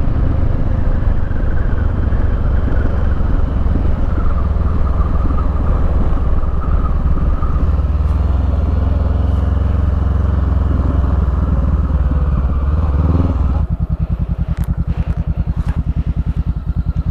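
Honda CBR500R's parallel-twin engine with a Termignoni slip-on exhaust, running under way with rushing noise. About thirteen and a half seconds in it drops to a steady, evenly pulsing idle, with a few light clicks.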